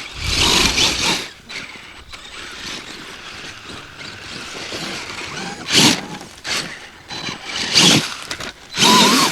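Radio-controlled off-road model car's motor and drivetrain whining in short bursts: a loud one at the start, then three more in the second half, the last with a rising whine.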